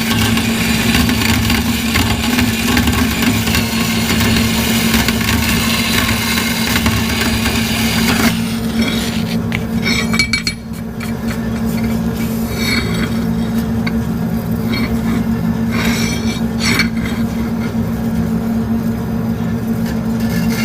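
Metal-cutting bandsaw running with a steady motor hum while its blade cuts through steel. About eight seconds in, the cutting noise stops as the blade cuts through, and the motor keeps running under scattered clinks of metal.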